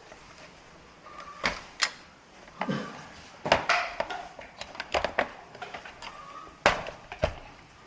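Irregular clicks, taps and knocks of small hard parts and tools being handled while working on a TV set, with the odd short squeak.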